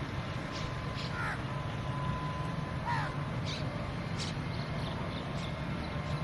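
Birds calling: two short calls about a second and a half apart, with a few brief higher chirps scattered around them, over a steady low background rumble.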